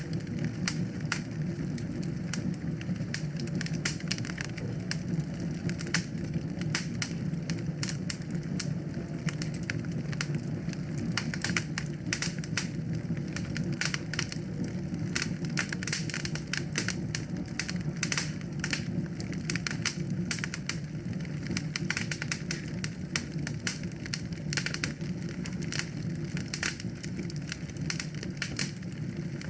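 Wood fire in a fireplace crackling: frequent irregular snaps and pops over a steady low rush of burning flames.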